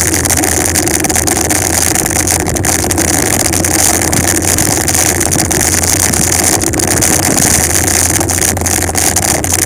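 Steady rush of wind buffeting the microphone, with road noise, from a bicycle descending a mountain road at speed.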